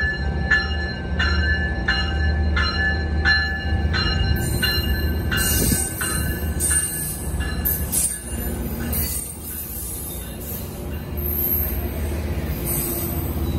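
Metrolink diesel locomotive passing slowly, its engine running low and its bell ringing steadily, about one stroke every 0.7 s, for the first four seconds. The bilevel passenger cars then roll by with their wheels squealing on the rails.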